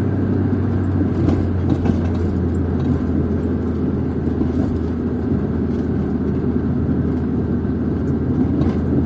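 Steady engine and road-noise drone inside a moving car's cabin, a constant low hum under an even rush of tyre noise, with a few faint ticks.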